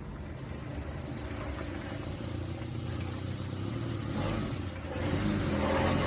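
A car engine runs steadily and gets louder about five seconds in, as if accelerating.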